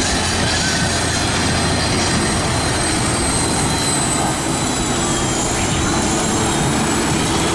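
A competition pulling tractor's engine running hard under load, loud and steady, with a thin high whine above it.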